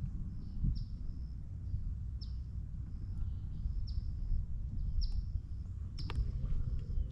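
A bird calling, repeating a short high note about once a second, over a steady low rumble. A couple of faint clicks come near the end.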